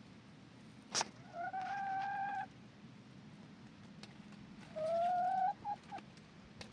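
Chickens calling: two drawn-out calls, the second rising slightly and followed by a few short notes, with a sharp click just before the first.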